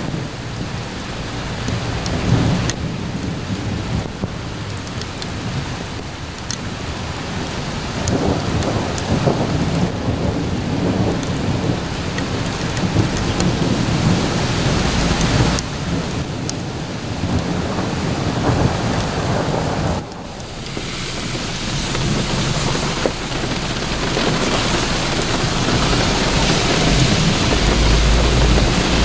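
Steady rain falling on lawn, plants and ground, with a low rumble underneath. The sound drops off sharply about twenty seconds in, then builds back up.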